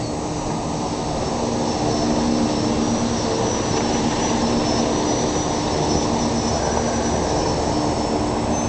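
Crane's engine running steadily, a constant drone with a few steady hum tones and a faint high whine.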